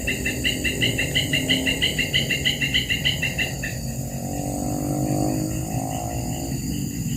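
A bird calling a fast run of repeated high notes, about seven a second, for three and a half seconds over a steady insect chorus. After that comes the steady hum of a distant engine.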